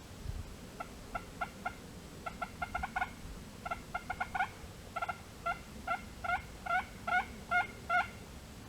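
Turkey yelping: a long run of short, hooked notes in quick clusters, growing louder toward the end.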